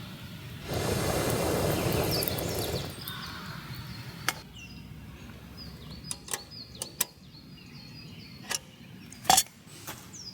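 A broad rushing noise fades out in the first few seconds. Then come irregular sharp wooden cracks and knocks, about a dozen over six seconds, along with faint high bird chirps.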